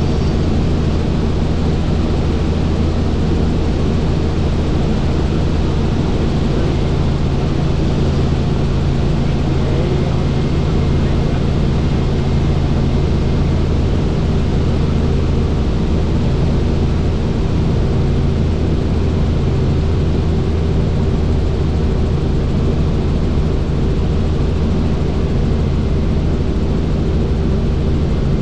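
Helicopter in flight: steady, loud rotor and engine noise with a constant low drone.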